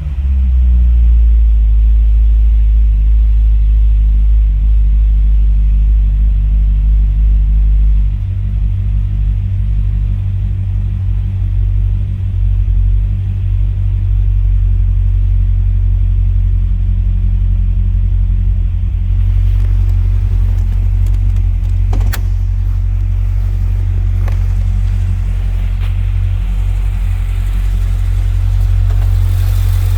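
2006 Corvette Z06's 7.0-litre LS7 V8 idling steadily while warming up from a cold start, a deep low rumble. About eight seconds in the idle note settles lower in tone, and a single sharp click sounds a little past the middle.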